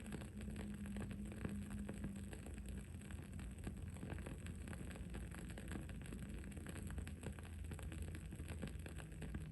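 Wood-wick candle crackling: a constant run of small, irregular pops and ticks over a low, steady hum.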